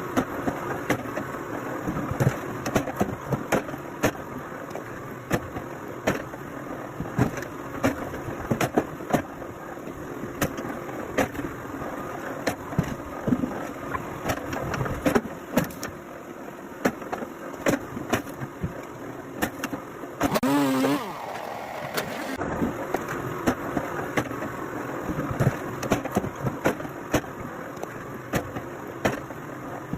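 An engine running steadily, with frequent sharp knocks and clicks over it and a brief wavering squeal about two-thirds of the way through.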